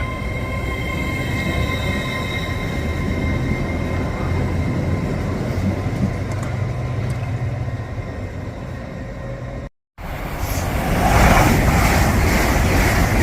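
Train noise with a steady high whine over a low rumble. About ten seconds in, the sound cuts off abruptly and comes back as a louder rushing noise of a train on the move.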